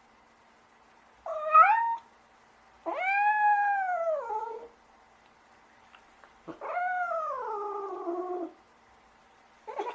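Domestic cat meowing: a short rising meow, then two long drawn-out meows, the second sliding down in pitch, with another meow starting at the very end.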